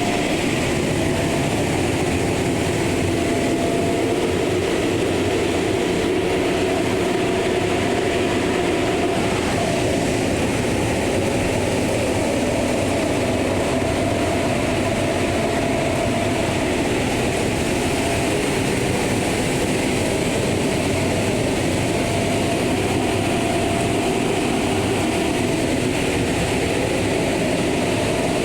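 Automatic car wash machinery running: a loud, steady noise with a constant hum that does not change.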